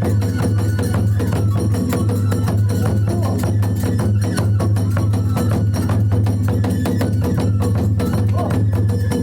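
Kagura hayashi accompaniment: taiko drum and small hand cymbals keep up a rapid, steady beat with ringing metallic overtones.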